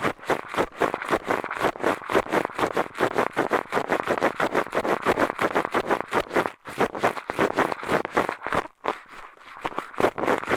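Ear-cleaning ASMR with a pair of eyeglasses: the glasses scraped and rubbed against a microphone's ear, in quick scratchy strokes, several a second, easing off briefly about nine seconds in.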